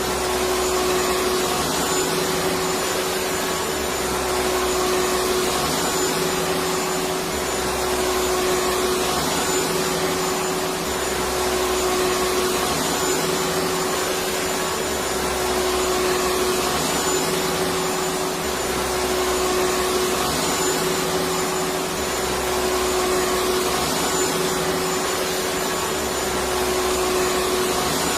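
Electric vacuum cleaner running steadily: an even rushing noise with a constant motor whine, and a low rumble that swells and fades every few seconds.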